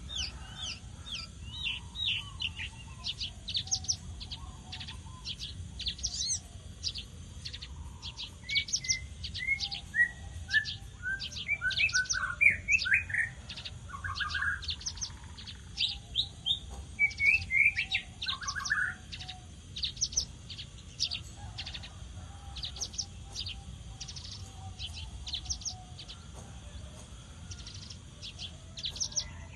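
Horsfield's bush lark (branjangan) singing vigorously: a long, fast, varied song of sharp down-slurred chirps, with descending runs of lower whistled notes in the middle.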